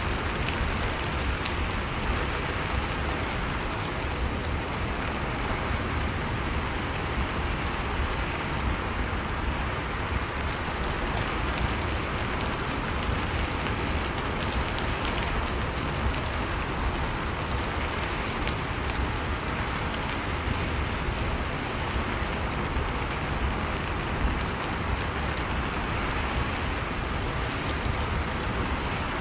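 Steady rain falling, an even hiss with a low rumble beneath, with no breaks or distinct events.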